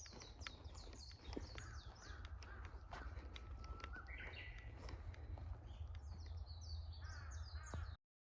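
Wild birds calling: quick series of high chirps, each note falling in pitch, in two bouts, with a clear whistle stepping up in pitch in between. Steady low rumble underneath, cut off abruptly near the end.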